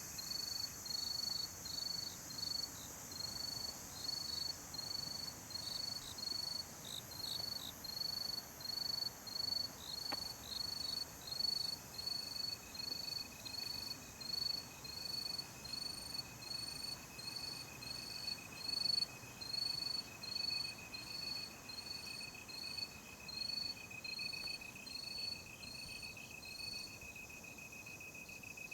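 Night insects: a cricket chirping in an even rhythm of about two chirps a second, over a steady high-pitched trill from another insect that joins about ten seconds in. The chirping stops near the end, leaving the trill.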